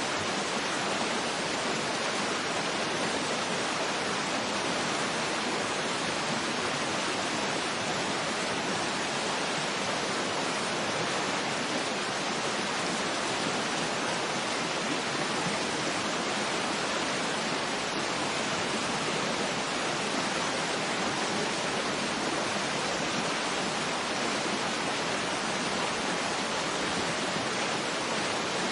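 Steady rushing of a waterfall: an even, unbroken hiss of falling water with no separate splashes and no change in level.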